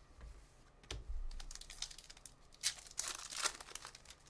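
A trading-card pack wrapper being torn open and crinkled in the hands, in short crackling bursts, with a knock about a second in.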